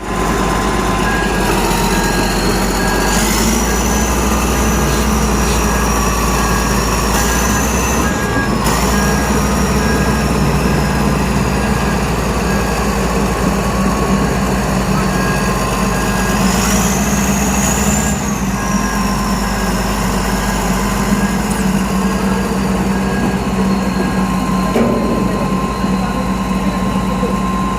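Heavy diesel earthmoving machinery running steadily under load, with a high whine that climbs about three seconds in and again around seventeen seconds, falling away after each. A short beep repeats evenly through the first several seconds.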